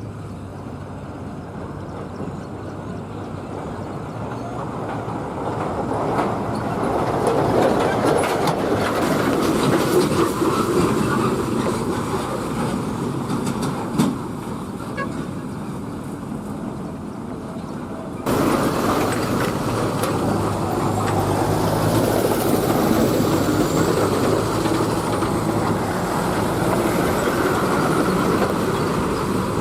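Heavy tipper trucks driving past on a road: engine and tyre noise swells to a peak and eases off, with one short knock. About two-thirds of the way through the sound changes abruptly to another stretch of steady traffic noise.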